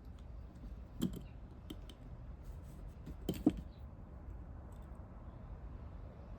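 Light clicks and knocks of small parts and tools being handled during carburetor work, with two louder knocks about a second in and about three and a half seconds in.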